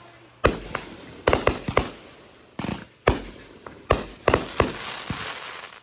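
Backyard fireworks going off: an irregular run of about a dozen sharp bangs, several in quick clusters, each trailing off with an echo, and a crackling hiss near the end.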